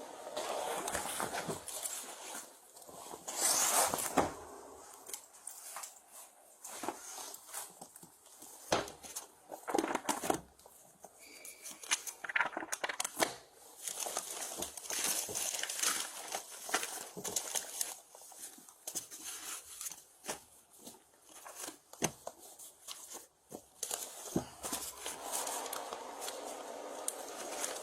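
Belongings being rummaged through in a search: paper and plastic rustling, crinkling and tearing, with scattered clicks and knocks.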